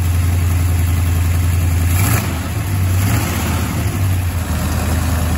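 Freshly built Mopar small-block V8 running on its first start, through a newly fitted full exhaust. Its speed wavers slightly about two seconds in.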